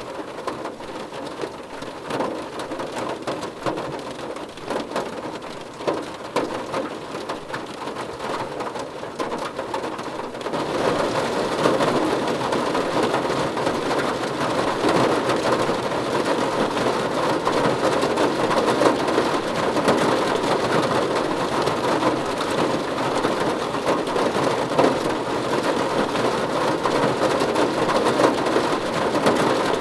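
Heavy rain falling steadily as a dense hiss of drops, stepping up to a louder, denser downpour about ten seconds in.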